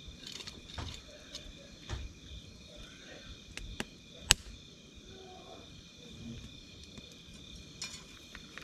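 Wood campfire crackling, with scattered sharp pops, one much louder about four seconds in, over steady chirping of night insects.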